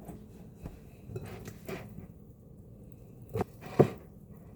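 Quiet kitchen handling noises: a few light knocks and taps, with two sharper knocks near the end.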